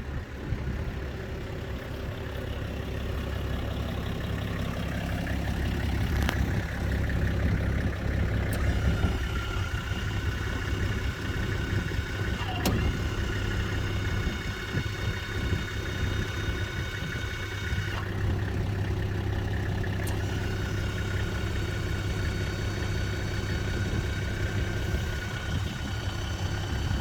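Toyota Land Cruiser tow truck's engine running steadily at idle. A thin, high whine comes in over it twice, for several seconds each time.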